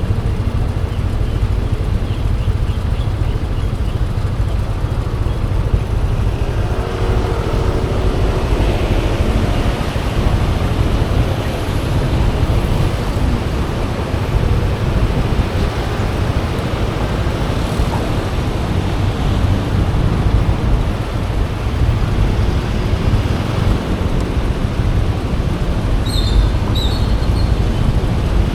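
Riding noise on a Yamaha Aerox 155 scooter: a steady wind rumble on the microphone over the engine and the surrounding road traffic.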